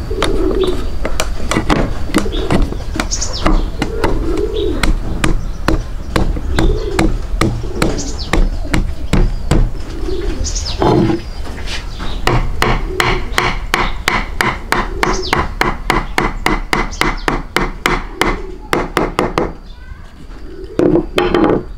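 Birds cooing over and over in low, rounded calls, with many sharp clicks among them. For several seconds in the second half the clicks come in a fast, even run, about four a second.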